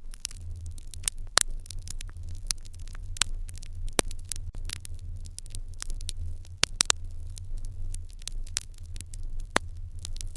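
Wood fire in an irori hearth crackling, with irregular sharp pops, several of them louder, over a steady low rumble.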